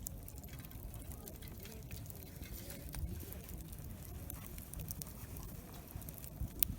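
Wood campfire crackling, with scattered small pops and one sharper pop near the end, over a low murmur of people talking around the campsite.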